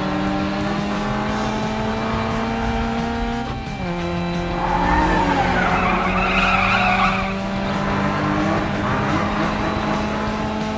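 Cartoon racing-car sound effects: an engine held at a steady pitch, which dips briefly a little over three seconds in, then a tyre screech from about four and a half to seven and a half seconds.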